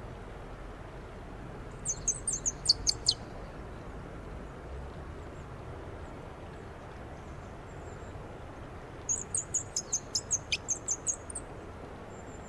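Wooden twist bird call squeaked in two quick runs of high, rapid chirps, about eight to ten a second: a short run about two seconds in and a longer one from about nine seconds in.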